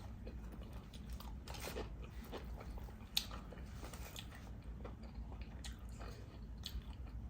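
Close-up chewing of a tuna sub sandwich: irregular small mouth clicks and smacks, with one sharper click about three seconds in.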